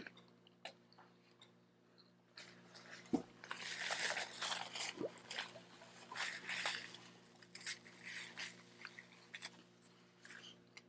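Close-up chewing and biting of a taco, in irregular bursts of wet mouth sounds and small clicks after a quiet first couple of seconds.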